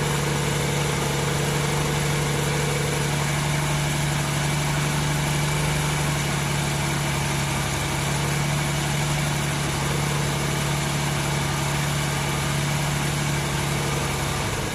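1994 MerCruiser 4.3LX V6 inboard engine idling steadily at about 900 rpm, its note dipping slightly near the end. This engine runs smoothly for a minute or so and then stalls on its own, a fault the owner has not yet traced.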